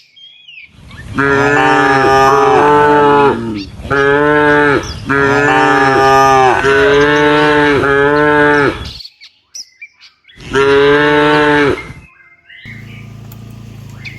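Cow mooing loudly in long, level-pitched calls, several in close succession and then one more near the end.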